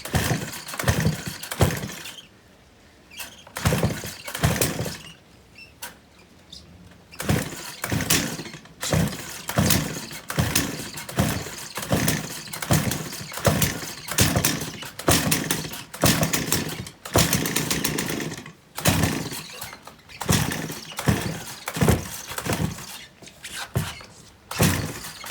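Stihl 028 AV Super two-stroke chainsaw being pull-started again and again, the recoil starter cranking the engine in short strokes about one a second, with a couple of brief pauses. The engine cranks but does not catch: the saw won't start.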